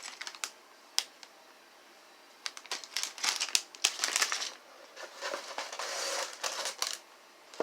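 Sealed plastic bags of toy building bricks crinkling as they are handled, with a few sharp clicks in the first second and steady crinkling from about two and a half seconds in.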